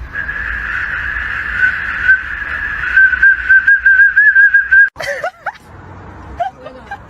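A high, steady whistle-like tone held for about five seconds, wavering toward its end and cutting off suddenly. It is followed by a dog's short yelping whines.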